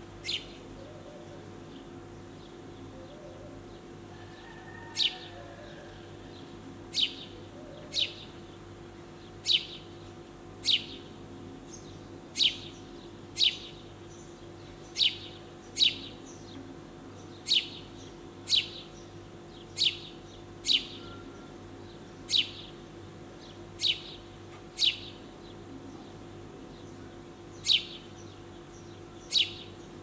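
A small bird giving a short, sharp, high call that falls in pitch, repeated about every one to two seconds, some twenty times, over a faint steady hum.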